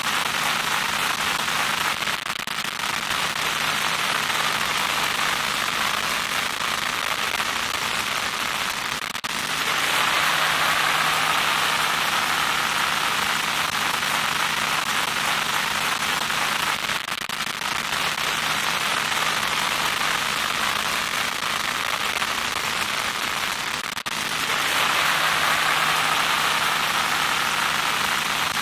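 Loud static noise: a dense, steady hiss with a faint hum beneath it. Its tone shifts every seven seconds or so, turning a little brighter and louder for a while and then duller again.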